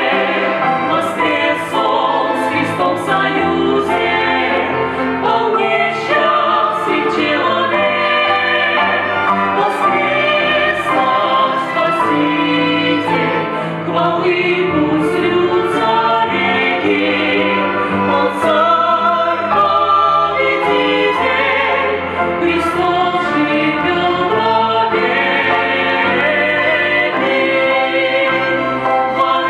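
Choir singing a Christian Easter song with musical accompaniment.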